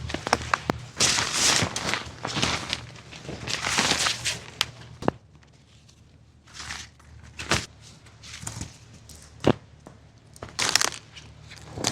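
Crunching and rustling with sharp cracks: two long crunching passes in the first half, then quieter, with a few single sharp snaps.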